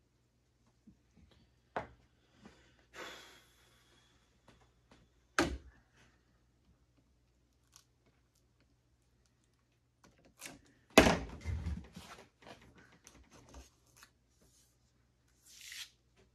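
Hand work at a workbench: scattered knocks and clacks of things being picked up and set down, with a short scrape early on, a sharp knock after about five seconds, and the loudest clatter about eleven seconds in followed by smaller rattles. A brief hiss near the end.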